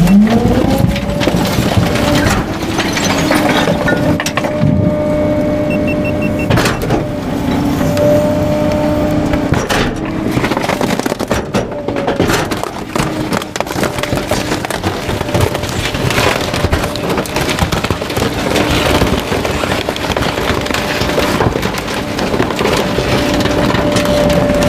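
Garbage truck's engine revving up in the first second, then holding a steady pitch while the hydraulic packer crushes bulky items, with wood cracking and splintering throughout.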